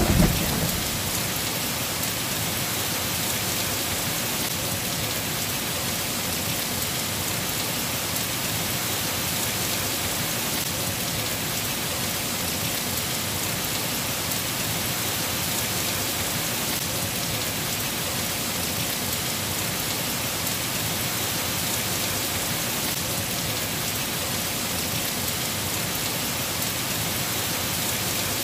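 Steady, even rain falling on foliage. A roll of thunder dies away in the first second.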